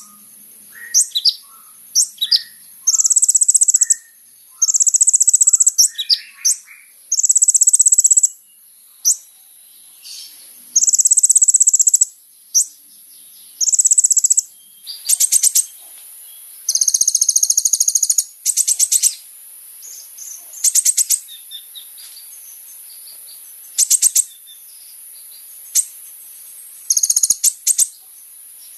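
Kolibri ninja sunbird singing: quick high chirps mixed with buzzy trilled phrases of about a second each, repeated every second or two, over a steady high hiss.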